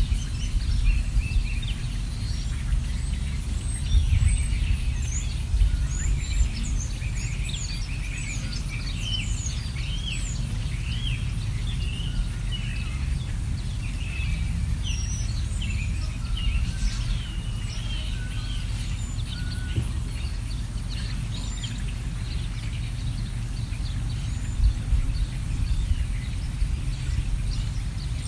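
Several wild birds chirping and whistling in quick, overlapping calls, busiest through the first two-thirds and thinning toward the end. A steady low rumble runs underneath and is the loudest part of the sound.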